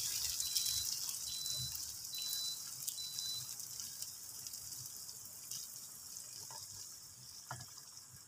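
Sambal chili paste sizzling in a nonstick frying pan and stirred with a silicone spatula, with a few light scrapes. The sizzle fades steadily because the heat has just been turned off.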